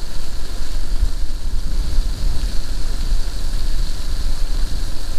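Engine of a vehicle working in the field running steadily under a rushing, wind-like noise, with a heavy uneven rumble of wind buffeting the microphone.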